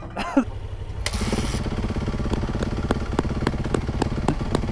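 Motorcycle engine running steadily while riding, with scattered sharp ticks over it.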